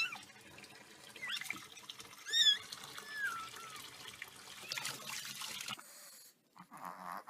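A kitten mewing several times in short, high-pitched calls that bend in pitch, over a faint hiss.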